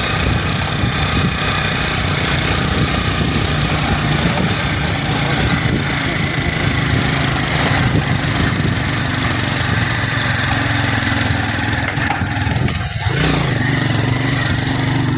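Motorbike engine running steadily on a ride, with a constant rushing noise over it. The engine note dips briefly near the end, then picks up again.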